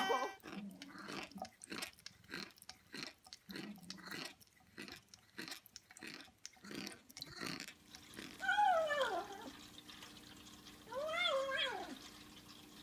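Irregular soft clicks and crunches, like chewing, for the first seven seconds or so. Then a cat meows twice, each meow rising and falling in pitch, over a faint steady hum.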